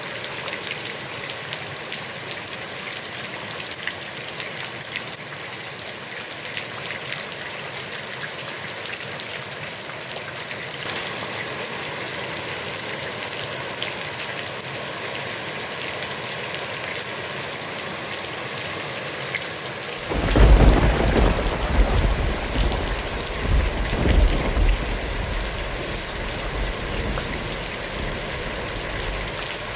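Heavy rain falling steadily on a pond, an even hiss. About twenty seconds in, a long deep rumble of thunder swells up, loudest for several seconds, then dies away.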